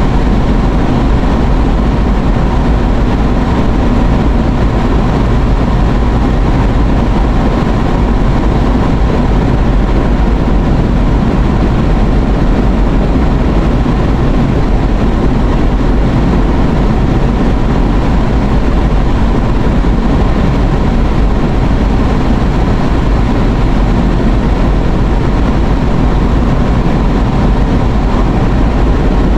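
Steady road and engine noise inside a moving car's cabin, a loud, even rumble that does not change.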